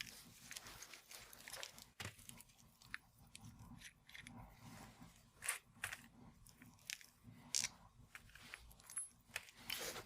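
Faint, scattered clicks and scrapes of hands working on a sway bar link, taking the retaining ring and rubber dust boot off its ball joint.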